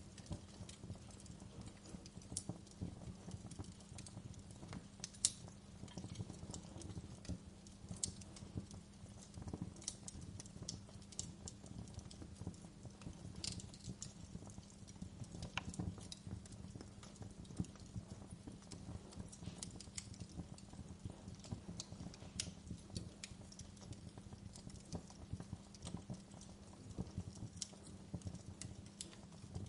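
Wood fire crackling in a fireplace: irregular sharp pops and snaps over a low, steady rumble of burning. One pop about five seconds in stands out as the loudest.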